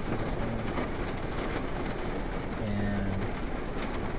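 Heavy rain beating steadily on a vehicle's roof and windshield, heard from inside the car.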